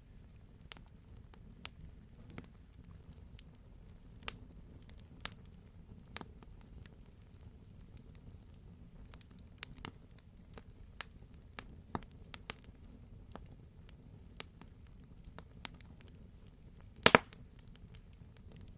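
Campfire crackling, with scattered sharp pops over a low steady rumble of the burning logs; a loud double pop near the end.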